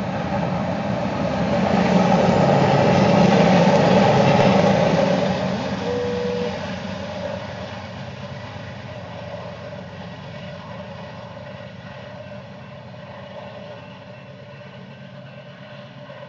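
Diesel locomotives in a double-stack container freight train passing close by, engines running with wheels rumbling on the rails. The sound is loudest a few seconds in, then fades as the train moves away.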